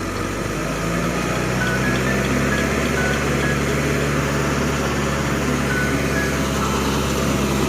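Truck's diesel engine running steadily at a constant pitch, with a few short, high beeps scattered over the top.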